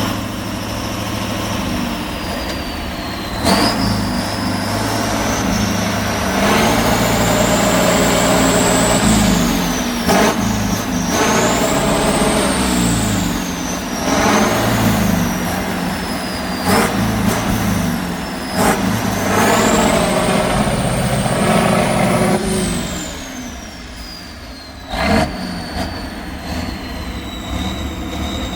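Heavy off-road trial truck's engine revving hard in repeated surges, each lasting a few seconds, with a high whine that rises and falls with the revs. It eases off near the end, with a few sharp knocks.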